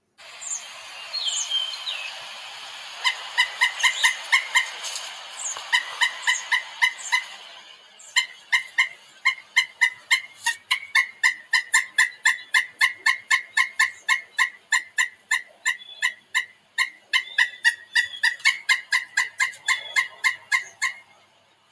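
A bird giving long series of short, harsh, evenly repeated calls, about three or four a second, at times in quick clusters. A few higher, sliding chirps and a hiss are heard in the first seconds.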